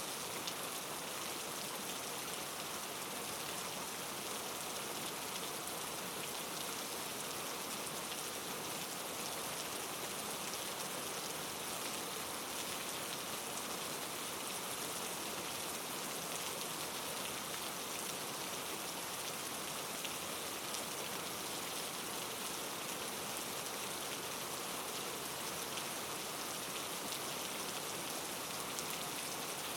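Steady rainfall, a constant hiss of drops with fine scattered patters, even throughout.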